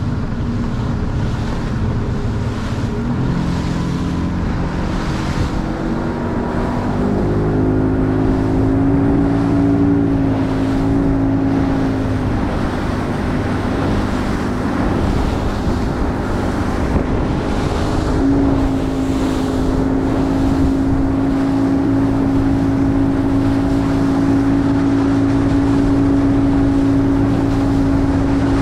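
Boat motor running under way, its pitch climbing a few seconds in as the throttle opens, then rising again and holding steady about two-thirds of the way through.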